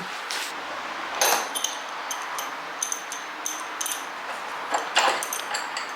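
Hand tools clinking and clicking against metal while the transit bolts are unscrewed from the back of a new washing machine, with a couple of louder knocks about a second in and near the end.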